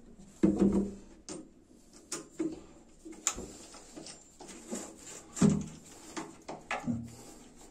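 Scattered light knocks, clicks and rubbing as a bathroom cabinet is handled and fitted against the wall.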